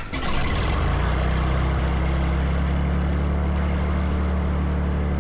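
Light aircraft's piston engine just after start-up, building in the first second and then running at a steady low idle.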